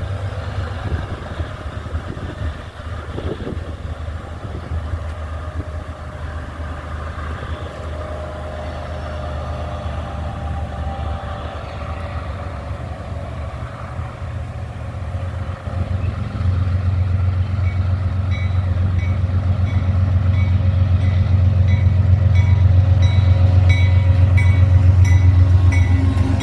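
Freight train's diesel locomotives approaching on the siding, a steady low engine rumble that grows louder through the second half. A light, regular clicking joins in near the end.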